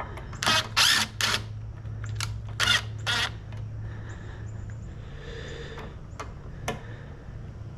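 Clicks and knocks of wooden pieces and hand tools being handled while assembling a workbench. There are several sharp knocks in the first three seconds and two more clicks near the end, over a steady low hum.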